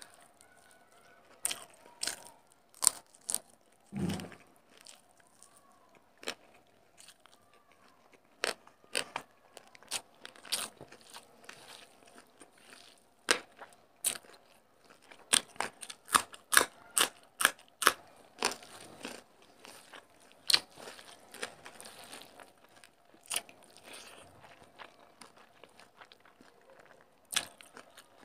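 Close-miked eating: sharp, irregular crunches, snaps and mouth clicks of someone chewing crisp fried food and rice eaten by hand. There is a duller thump about four seconds in.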